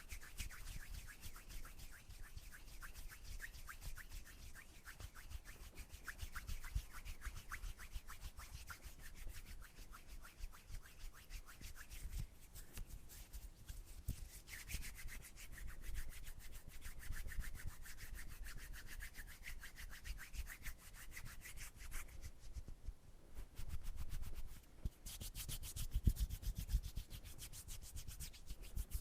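Hands rubbing together close to the microphone in quick, continuous strokes. The texture changes about halfway through, and there is a short quieter stretch near the end before the rubbing grows sharper again.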